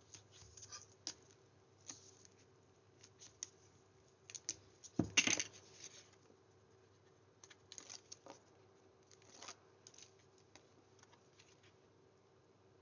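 Paper and card being handled on a craft desk: scattered light taps and soft rustles as a cut sentiment panel is positioned and stuck down, with one louder rustle and knock about five seconds in.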